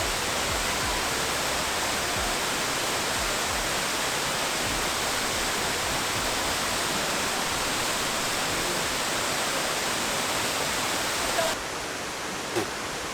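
Waterfall rushing: a steady, dense hiss of falling water. It drops abruptly to a quieter rush about eleven and a half seconds in.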